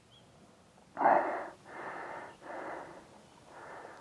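A rider's heavy breathing, four breaths about half a second apart, the first the loudest.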